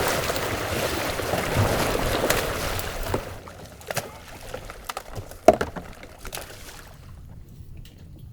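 Water splashing and sloshing for about three seconds, then quieter with a few sharp clicks and knocks.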